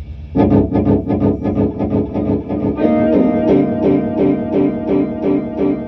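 Guitar playing a riff of quickly repeated picked notes. It starts about half a second in, and the notes shift to a new pattern about halfway through.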